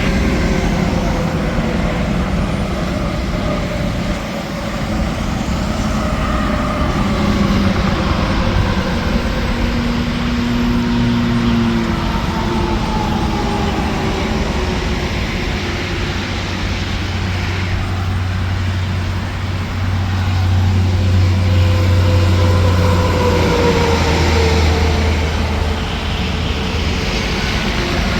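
Interstate highway traffic: trucks and cars passing at speed, with tyre and engine noise whose pitch slowly falls as each goes by. A deep engine drone stands out through much of the second half.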